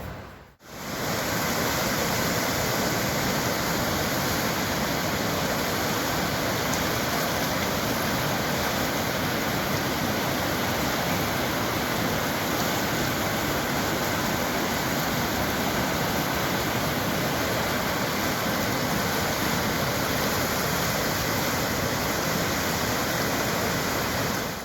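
A river running high and fast, rushing water making a steady, even roar that doesn't change.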